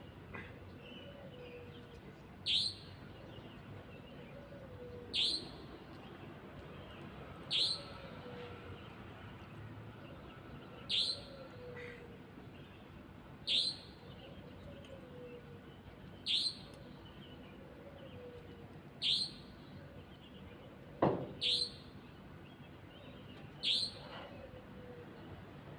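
Birds calling at dawn: one bird repeats a short, sharp, high-pitched call about every two and a half seconds, about nine times. Between these calls comes a fainter, lower call that falls in pitch. A sharp click sounds once, near the end.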